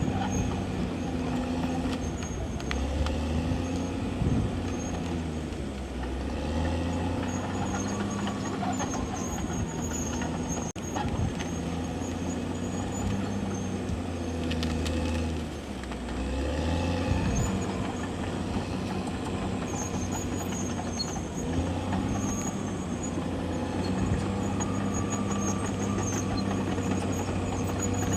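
CAT D6R XL bulldozer's diesel engine running under work, its pitch rising and falling several times as the load changes. A faint high squeal comes and goes.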